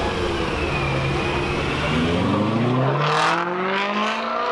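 Car engine revving hard, its pitch climbing steadily through the second half, with loud bursts of noise near the end.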